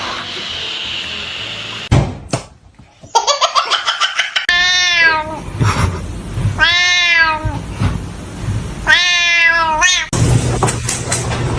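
A cat meowing loudly three times, each meow a long call of about a second that rises and then falls in pitch.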